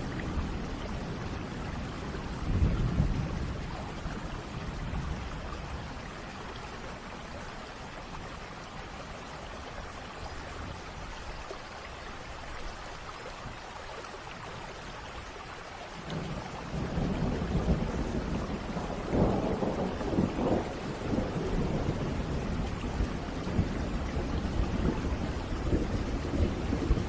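Steady rain with rolls of thunder. A short rumble comes a few seconds in, then a longer, louder roll of thunder builds from a little past the middle and peaks a few seconds later.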